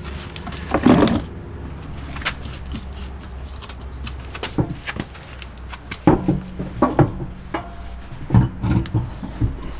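Scattered clicks and knocks of hand work, the loudest about a second in and a busier run from about six seconds on, over a steady low hum.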